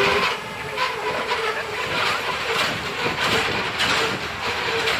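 Passenger train running at speed, with a steady rumble and the clack of wheels over rail joints about twice a second.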